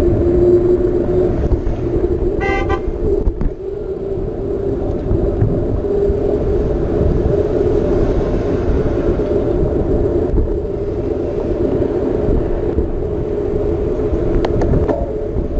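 Steady rumble of a Trek Marlin 7 mountain bike in motion, tyre noise on the path mixed with wind on the microphone. A short horn-like toot sounds once about two and a half seconds in.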